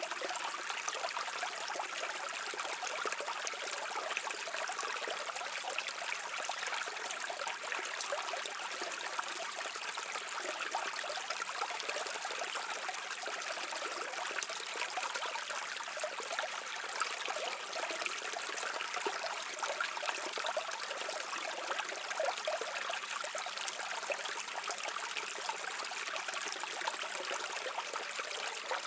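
A brook of shallow water running over rocks, babbling and trickling in a steady, unbroken flow.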